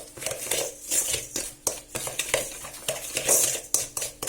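A spoon stirring a thick homemade paste with salt just mixed in, scraping and clinking against the bowl in quick, irregular strokes.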